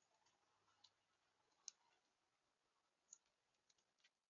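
A few faint, sharp clicks from a bird at a feeder, scattered irregularly over a quiet hiss, one louder than the rest.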